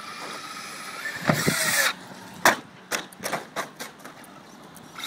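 Traxxas 1/10 rally RC car's electric motor whining, then a loud rush, a sharp hard impact about two and a half seconds in, and four or five lighter knocks as the car lands or tumbles.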